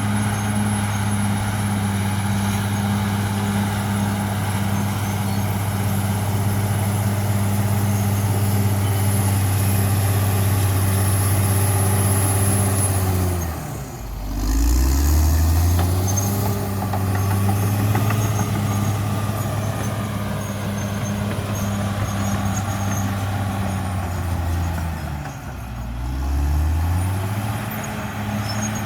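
CAT D6R XL bulldozer's diesel engine running steadily at working revs. Its pitch drops sharply about halfway through and again near the end, climbing back each time within a couple of seconds. A thin high whine runs through the first half and stops just before the first drop.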